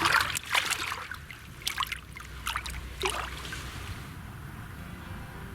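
Water splashing and trickling as a carp is returned to the lake by hand: a few short splashes in the first three seconds, then quieter water.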